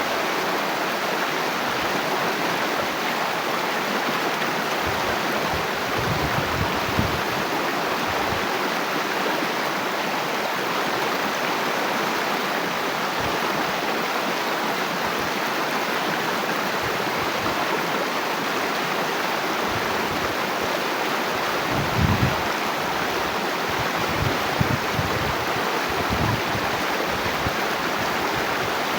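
Water flowing steadily in a stream, an even rushing and splashing, with a few brief low bumps now and then.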